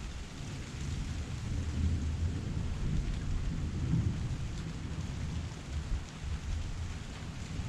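Heavy rain falling steadily, a continuous hiss with a deep, uneven rumbling underneath.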